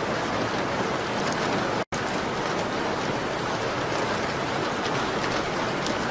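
Steady rain on a window pane, a dense even hiss with a few faint sharp ticks. The sound cuts out completely for an instant about two seconds in.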